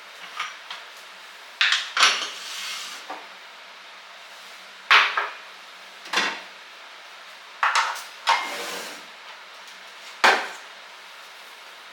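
Kitchen things being handled and set down on a hard surface: a run of sharp clacks and knocks, irregular and a second or two apart, two of them trailing off into a short rustle.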